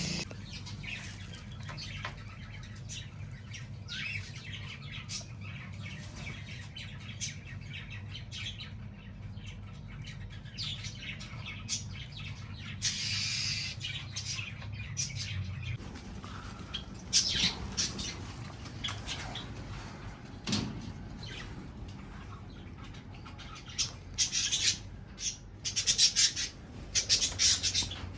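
Parrots in an aviary calling with short chirps and squawks, which come thick and fast near the end. A low steady hum runs underneath for the first half.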